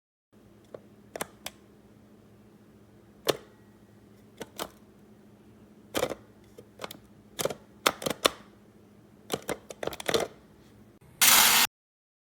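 Sharp plastic clicks and taps, irregularly spaced, from handling a DmofwHi cordless coffee grinder and working its button; no motor starts, as the grinder has stopped working despite a full charge. A short loud rustling burst comes near the end.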